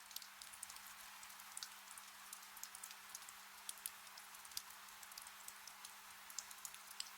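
Gentle rain falling, a soft steady hiss dotted with many small, sharp drop ticks, over a faint steady low hum.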